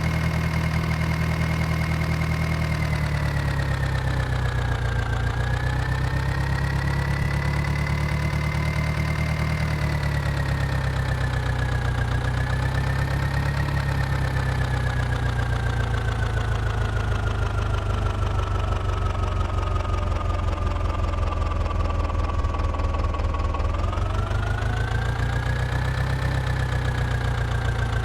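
Tractor diesel engine running steadily, its speed drifting slowly down and back up several times, with a long gradual slowdown and then a rise in revs near the end.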